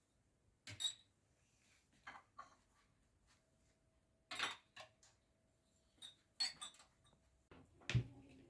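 Quiet, scattered clinks and light knocks of small hard objects being handled, about eight in all, the loudest a duller thud near the end.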